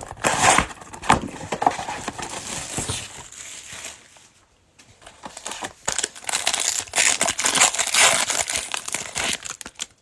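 Plastic wrapping of a football trading card hobby box and its packs crinkling and tearing as they are opened, in two spells with a short pause in the middle.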